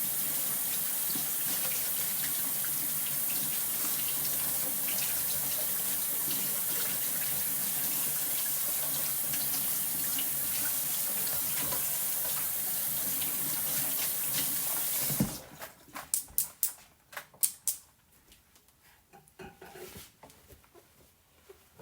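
Water running steadily from a tap into a sink, shut off abruptly about fifteen seconds in, followed by a string of sharp knocks and clatter.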